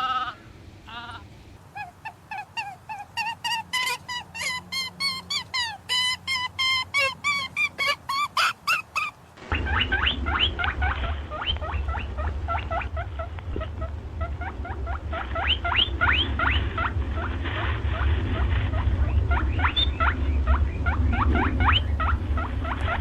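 High-pitched animal squeaks and chirps. First comes a quickening series of short calls. After an abrupt cut, a dense run of short falling squeals plays over a steady low rumble.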